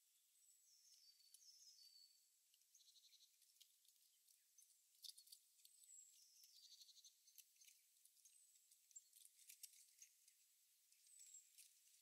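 Small birds calling faintly: thin, high-pitched notes that slide down, recurring every couple of seconds, with short buzzy trills and scattered sharp ticks, the loudest about five seconds in.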